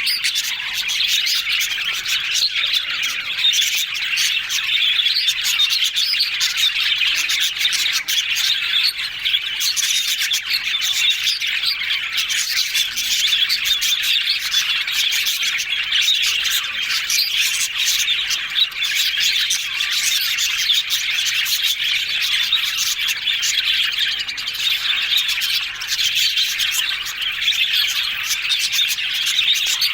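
Budgerigars chattering and chirping continuously, a dense overlapping warble of several birds at once.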